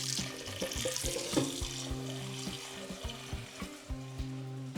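Tap water running into a cooking pot as it is filled for boiling pasta, the rush strongest in the first couple of seconds and then easing, over background music.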